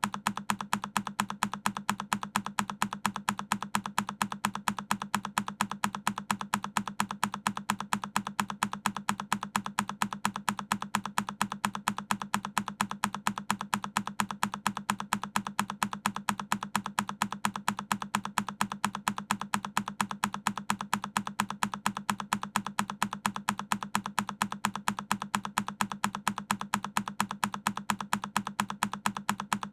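A single key on a Keychron K10 mechanical keyboard pressed over and over, one identical click repeating at an even pace of about two to three a second.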